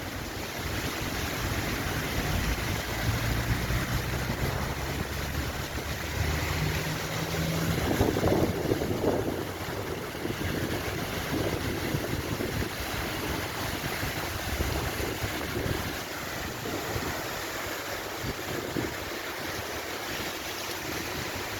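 Water pouring and splashing steadily down a marble waterfall fountain, with some wind buffeting the microphone. A low steady hum sits under it for the first several seconds.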